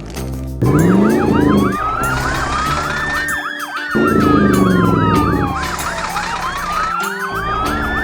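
Two emergency-vehicle sirens sounding together: one a slow wail rising and falling over about three seconds, the other a fast yelp cycling about four times a second. Under them a vehicle engine revs up twice, about half a second and four seconds in.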